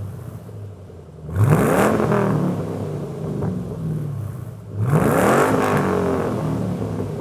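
2010 Ford Mustang GT's 4.6-litre V8 through a DynoMax stainless cat-back dual exhaust, idling and free-revved twice. Each rev rises quickly and settles back to idle, the second about three and a half seconds after the first.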